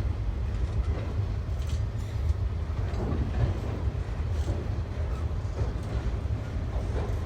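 Freight train rolling past with a steady low rumble, with a few faint clacks of wheels over the rails.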